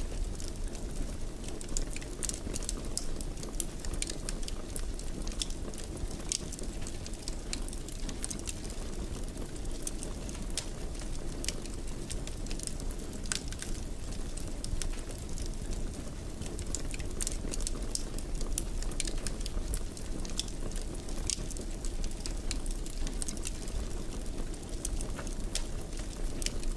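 Fireplace fire burning: many small sharp crackles and pops scattered irregularly over a steady low rush of flame.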